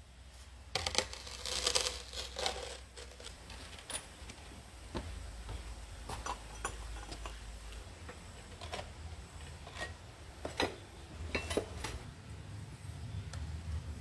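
Glaze-fired pottery clinking and knocking as pieces are handled and set down, with a cluster of rattling clinks about a second in and a few sharp clinks later on.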